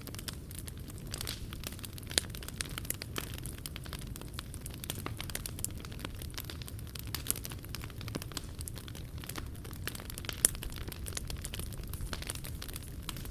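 Wood fire crackling, with dense, irregular small snaps and pops over a low steady rumble; two louder pops stand out, about two seconds in and near ten seconds.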